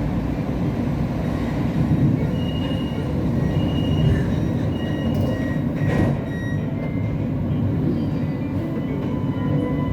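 Inside a Siemens Inspiro metro train running along the track: a steady low rumble, with short high steady tones coming and going over it in the middle and a brief click about six seconds in.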